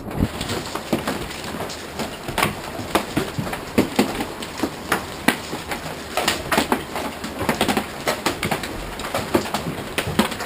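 Large hailstones striking the ground and nearby surfaces in a heavy hail storm: a dense, irregular patter of sharp cracks and knocks, several a second, over a steady rushing hiss.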